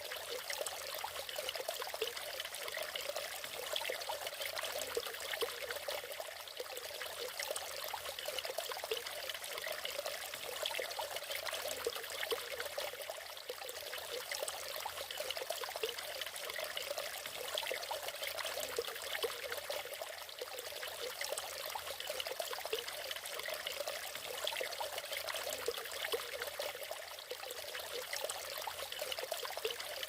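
Natural waterfall: a steady, unbroken rush of falling and splashing water, with little deep rumble.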